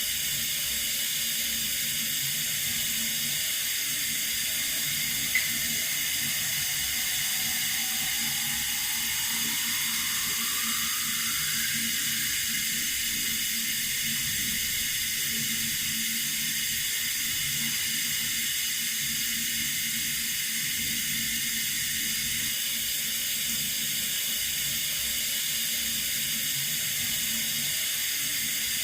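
Running water from a tap, a steady hiss, with one short click about five seconds in and a faint rising tone around ten seconds in.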